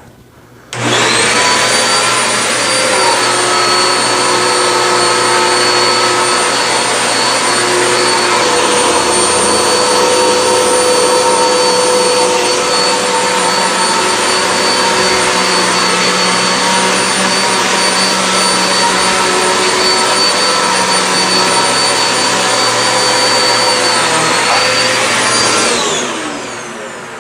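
Hoover WindTunnel High Capacity upright vacuum cleaner switched on just under a second in and running steadily over carpet with a high whine. It is switched off near the end, its motor winding down in pitch.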